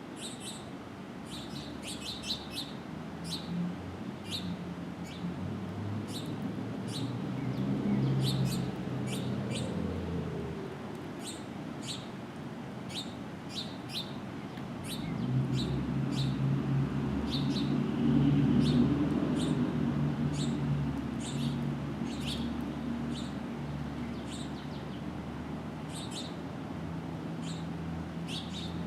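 Birds at a feeder giving many short, sharp chirps, repeated throughout. Under them a low engine hum swells twice, as if vehicles were passing.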